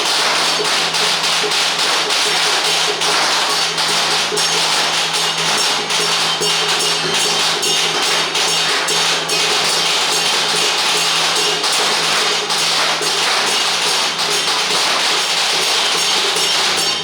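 Taiwanese temple procession percussion: cymbals and gongs clashing loudly and continuously in a fast, even rhythm.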